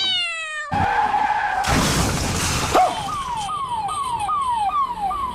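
Comic sound effects for a sudden scooter swerve. A tyre skid squeals for about a second, then comes a second-long noisy crash. After that, a string of short falling whistle tones repeats a little over twice a second.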